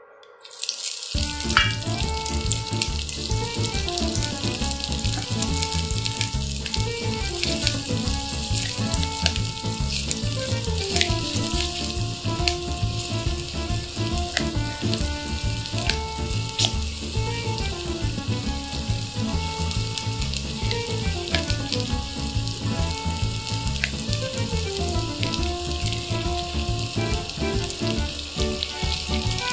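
Diced red onion sizzling as it fries in hot oil, a steady crackling hiss full of small pops that starts suddenly about half a second in as the onion goes into the oil. A light background melody plays along underneath.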